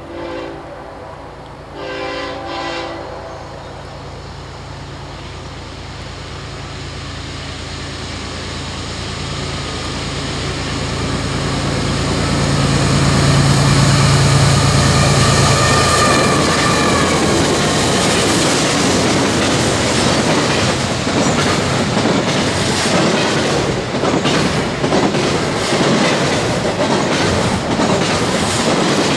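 Diesel freight locomotive horn sounding in short blasts near the start, then the locomotives' engines growing louder as they approach and pass about halfway through. A double-stack container train follows, its wheels clicking and clattering over the rail joints.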